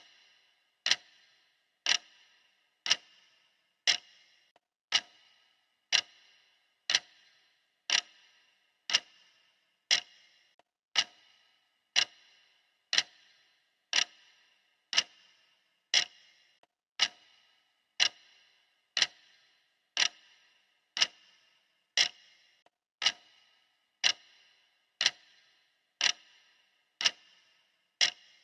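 Steady clock-style ticking: one short, sharp tick every second, evenly spaced, each with a brief bright ring.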